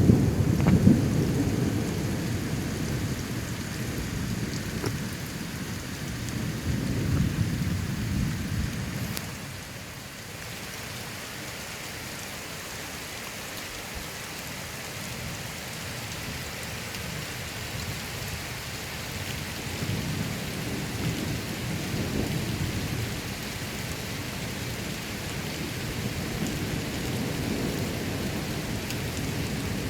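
Steady rain falling through a thunderstorm, with rolling thunder: a loud low rumble at the start that fades over a few seconds, another about seven seconds in, and fainter rumbles later.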